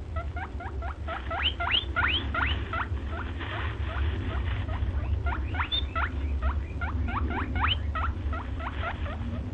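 A small rodent squeaking in a rapid series of short, rising chirps, several a second, over a steady low hum.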